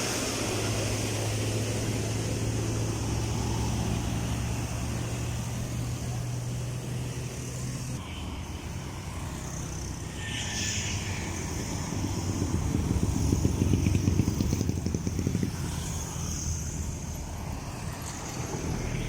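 Road traffic: a steady engine hum for the first half, then a vehicle passing close, loudest about two-thirds of the way through.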